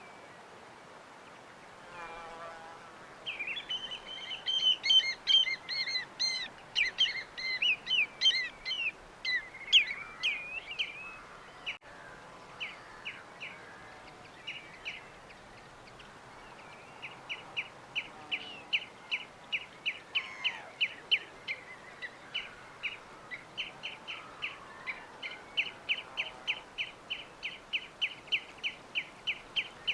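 Songbirds singing: a dense, fast jumble of high song phrases for several seconds, then after a pause one bird repeating a short chirp about three times a second. A faint, even background hiss runs underneath.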